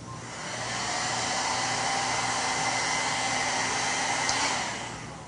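Handheld hair dryer blowing steadily, a rush of air with a faint steady motor whine; it comes up about half a second in and winds down near the end.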